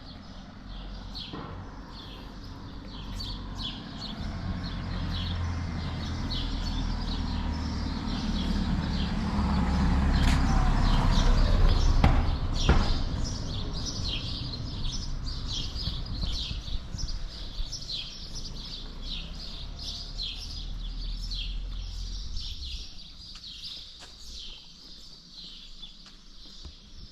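Small birds chirping over and over throughout, with a low rumble that swells to its loudest a little under halfway through, then dies away toward the end.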